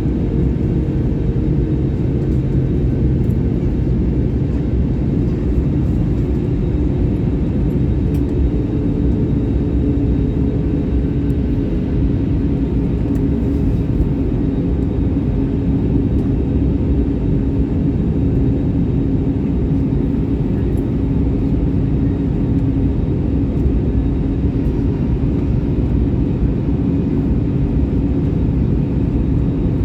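Steady airliner cabin noise heard from inside the cabin: the engines and rushing air make an even, loud low rumble with a faint steady hum, unchanging throughout.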